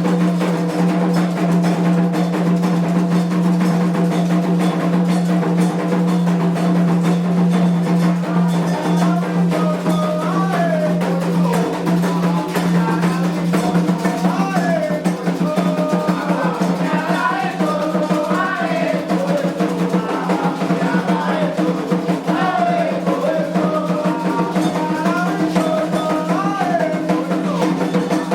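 Candomblé ritual music: fast drumming on hand drums with a bright percussion pattern. A sung melody comes in about nine seconds in, all over a steady low hum.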